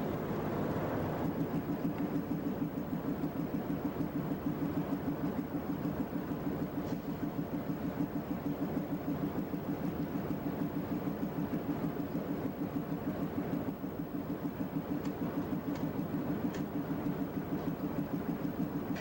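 Diesel locomotive running with a steady, fast, even pulsing, about four beats a second.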